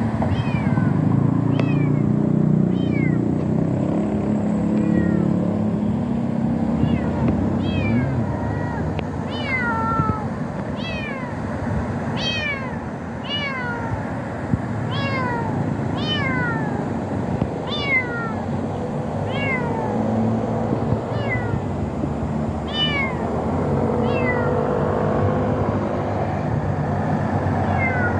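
Kittens mewing: short, high-pitched mews that fall in pitch, repeated about once a second, over a steady low rumble.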